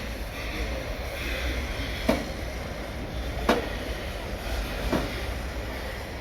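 Outdoor street ambience: a steady low rumble with a general hiss, broken by three sharp knocks about a second and a half apart.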